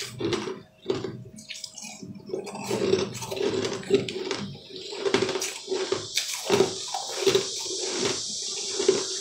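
Close-up wet chewing and crunching of sugar-crusted purple sweets, a quick irregular run of juicy crackles and mouth smacks.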